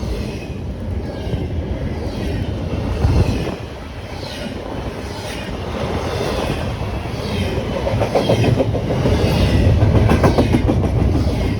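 Freight train rolling past at speed, its wheels clicking rhythmically over the rail joints under a steady rumble.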